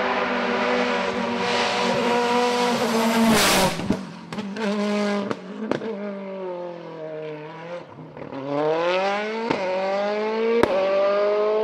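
Race car engine held at high revs, then lifting off about three and a half seconds in with a loud burst and several sharp cracks as the revs fall. It then accelerates again with rising revs, with a sharp crack at a gear change near the end.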